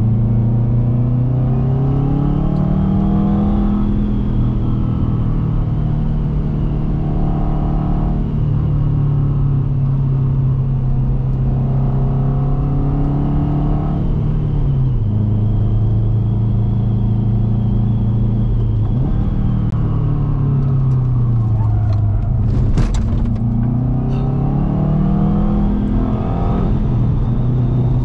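A 2006 Subaru WRX's turbocharged flat-four engine running under load, its revs climbing, holding and dropping again several times. A brief sharp noise comes through late on.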